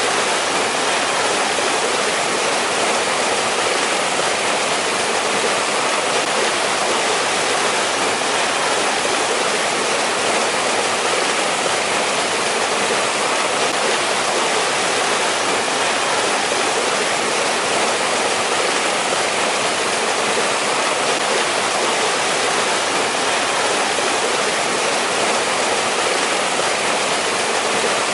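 Mountain valley stream running over rocks in winter: a steady, even rush of flowing water with no change.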